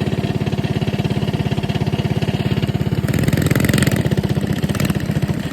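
Mini bike's small engine running steadily with a fast, even firing pulse, picking up slightly with a brief rush of hiss about three seconds in.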